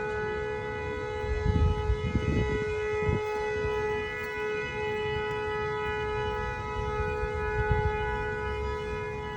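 Outdoor warning siren sounding a steady, unwavering tone of several pitches at once, with low thumps of wind or handling on the microphone between about one and a half and three seconds in and again near the end.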